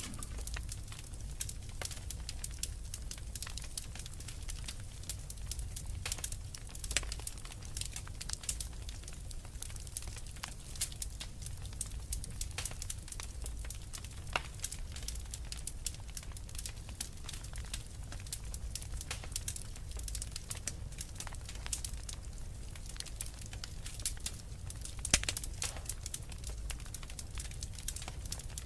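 Wood fire burning in a fireplace: frequent irregular crackles and pops over a steady low rumble of the flames, with one louder pop near the end.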